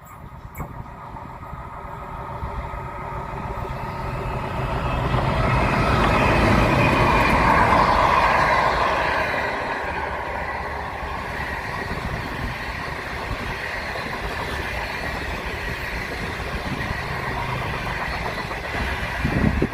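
Passenger train approaching and passing: the rumble builds, is loudest about six to nine seconds in as the locomotive goes by, then the carriages roll past steadily, with a knock near the end.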